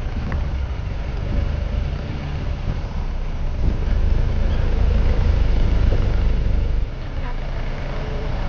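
Safari jeep driving on a bumpy jungle track: a steady engine and road rumble that swells for a few seconds in the middle and drops back about seven seconds in.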